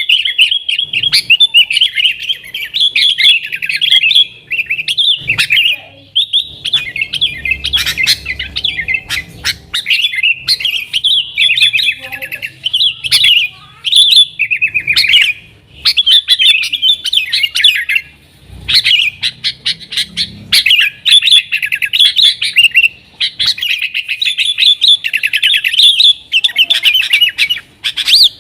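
Yellow-vented bulbul (trucukan) singing nonstop in rapid, chattering, warbling phrases, broken by brief pauses every few seconds.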